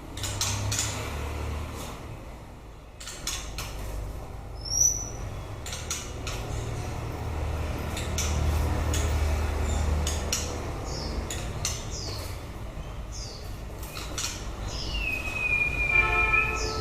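White-rumped shama giving sparse whistles rather than full song: a brief high note about five seconds in and a longer falling whistle near the end. Scattered light clicks and knocks and a low rumble fill the gaps.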